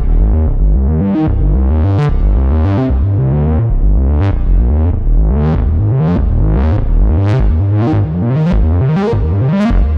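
A 2022 reissue Minimoog Model D analog synthesizer playing a low, plucky line of notes. Each note opens bright and quickly closes down, about one to two notes a second, a little faster in the second half.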